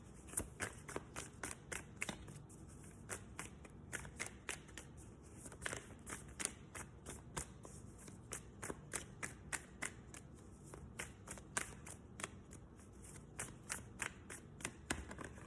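Tarot cards being shuffled by hand: a run of quick card taps and flicks, a few a second.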